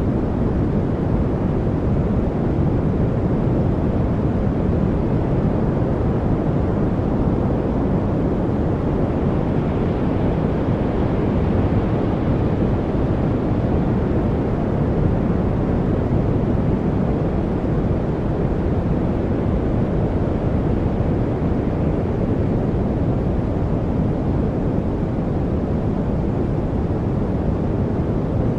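Steady, unbroken rushing noise from a study noise track, deep and rumbling with most of its weight low and little hiss at the top, like distant surf or wind.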